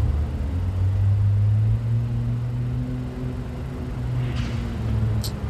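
Motor vehicle engine running close by: a steady low hum, loudest in the first two seconds and easing off after. A brief high squeak near the end.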